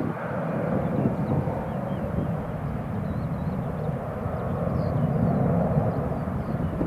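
Boeing 737-500's CFM56-3 turbofan engines at take-off power, a steady rumble, with faint high chirps above it.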